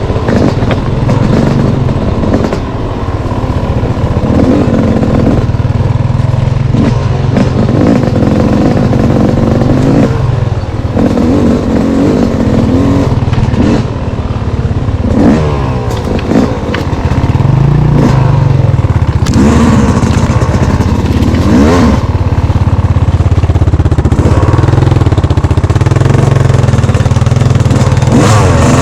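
Off-road vehicle engine being ridden hard on a trail, revving up and falling back again and again as the throttle is opened and closed.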